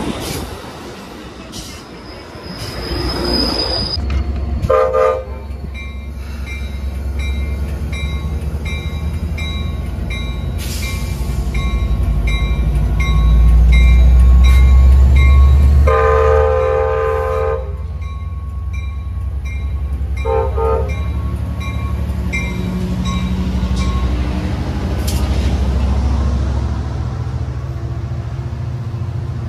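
Amtrak California passenger train's diesel locomotive coming into the station: the horn sounds a short blast about five seconds in, a long blast past the middle and another short one a few seconds later. A bell rings about three times every two seconds, and a deep engine rumble grows louder as the locomotive passes.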